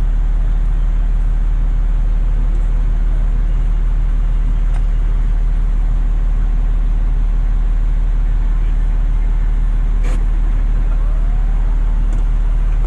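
Fire truck's diesel engine running steadily, a loud even low rumble heard from inside the cab, with a single sharp click about ten seconds in.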